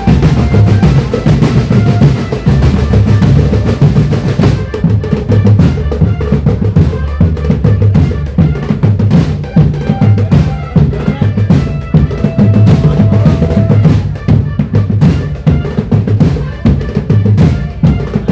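Indonesian marching drumband playing a dance rhythm: bass drums pounding a steady beat under snare drums and rolls, with a few short melodic notes over the percussion.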